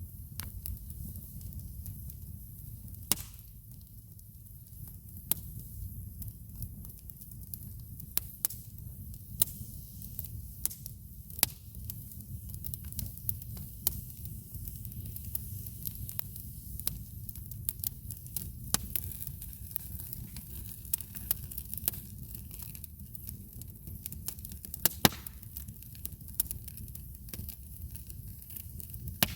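Wood campfire crackling: irregular sharp pops and snaps, a few much louder than the rest, including two close together about 25 seconds in, over a steady low rumble.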